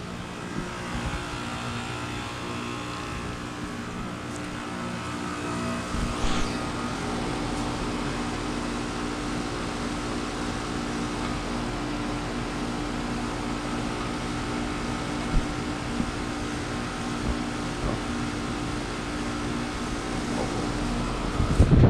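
Carrier Comfort 15 heat pump outdoor unit running, with a steady hum made of several held tones over a noisy whoosh. A deeper low rumble joins about six seconds in.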